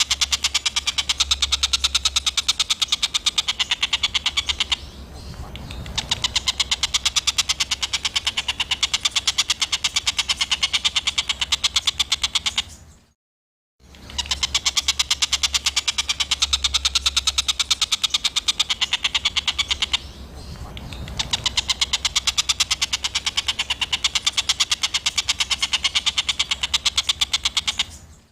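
Small songbird's rough, rapid-fire call ('tembakan kasar'), a fast, evenly repeated run of short high notes, played as a looped masteran recording. The same phrase of about 14 seconds plays twice, with a brief silent gap between the plays, and dips for a moment partway through each play.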